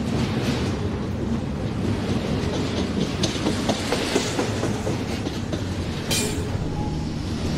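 Freight train of intermodal container and trailer cars rolling past, its wheels clicking steadily over the rail joints with a continuous rumble. There is a brief sharp high-pitched noise about six seconds in.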